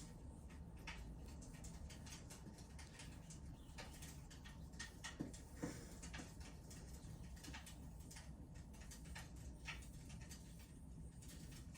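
Wood fire in a fireplace crackling faintly: irregular small snaps and pops over a low steady hum.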